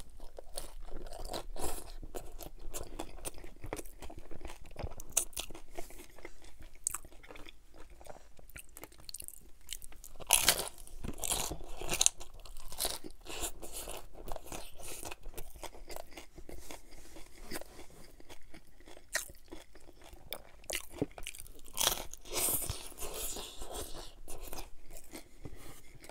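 Chewing a crunchy hard-shell corn taco filled with fried chicken skin: dense, crackling crunches throughout, with the loudest crunches around ten and twelve seconds in.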